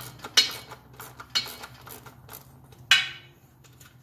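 Small hand ratchet and socket working the nuts off the bolts of a Thetford RV toilet's plastic base: three sharp metallic clinks with lighter ticks between.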